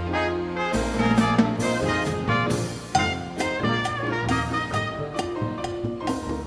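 Live dance orchestra playing a Latin dance number, with brass including trumpet over a steady drum-kit rhythm.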